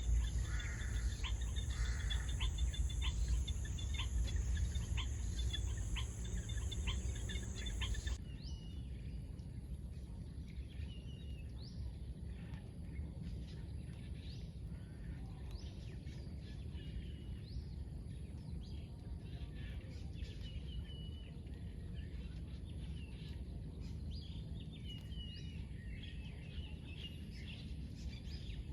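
Outdoor nature ambience: a steady high insect buzz with regular clicking, which stops abruptly about eight seconds in, followed by scattered short bird chirps over a constant low rumble.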